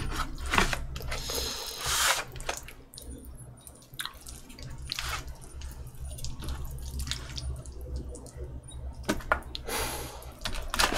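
Wet chewing and mouth sounds of someone eating spaghetti, with scattered clicks of a fork against a foil tray.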